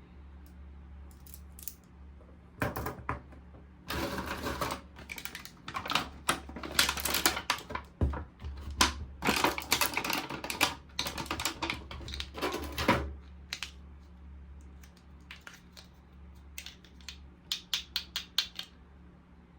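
Hands unboxing and handling a toy roller washing machine: a busy stretch of packaging rustling and plastic clicking from about two and a half seconds in, then a quick run of sharp clicks near the end, over a steady low hum.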